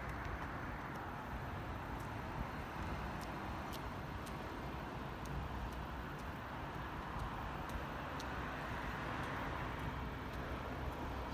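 Steady outdoor rumble of a Keikyu 1000 series stainless-steel electric train rolling slowly into the depot, mixed with distant road traffic, with a few faint sharp ticks scattered through it.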